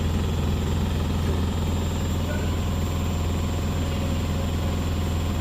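Beko WS832425s washing machine spinning its drum at high speed: a loud, steady hum with a fast, even pulse, unchanging throughout.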